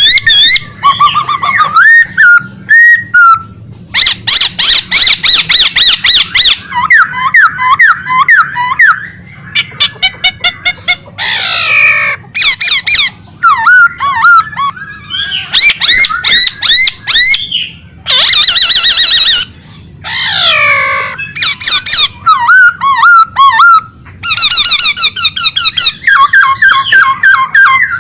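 A songbird singing vigorously and almost without pause. The song is loud and varied: rapid repeated notes, trills and downward-sliding whistles in phrases broken by short gaps.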